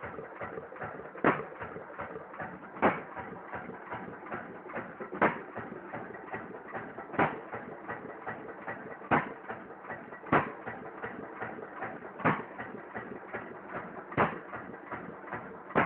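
3 hp Massey-Harris Type 2 single-cylinder stationary engine running on its first start. It fires about nine times, every one and a half to two seconds, with lighter clicking between the firings.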